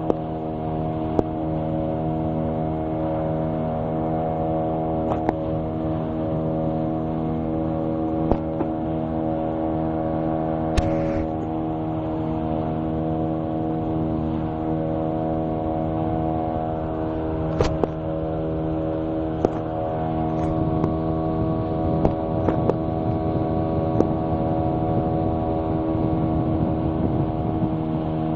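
Boat engine running at a steady, unchanging pitch, with a few short clicks and knocks over it.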